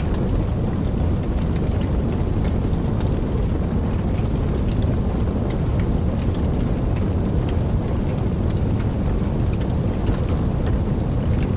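Wood campfire burning: a steady low rumble of flames with small crackles and pops scattered throughout.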